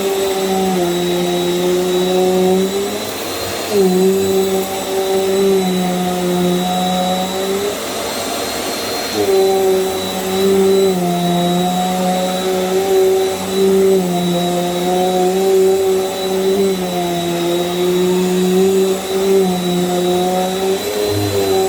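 Small Bissell vacuum cleaner running over a rug, its motor note dipping and recovering every few seconds as it is pushed back and forth, over a steady high whine.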